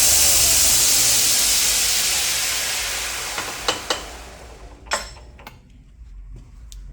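A 3 hp 2x72 belt grinder runs at full speed with a loud, steady hiss from the belt, then winds down and fades out over about four seconds as it coasts to a stop. A few light clicks and knocks come near the end.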